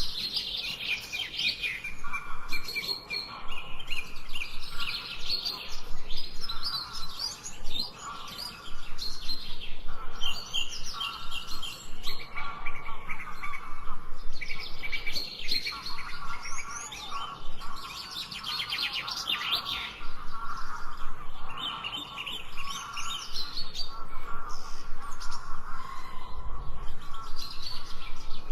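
Birds chirping and calling in a dense chorus of quick, overlapping high notes, with lower calls running underneath.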